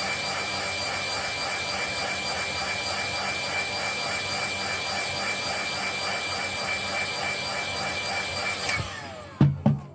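A small electric motor runs steadily with a high whine and a rushing air sound, then is switched off and winds down near the end. Two loud knocks follow just before the end.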